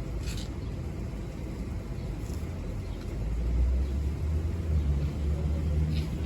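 Low rumble of a motor vehicle going by, growing louder about halfway through and easing off near the end.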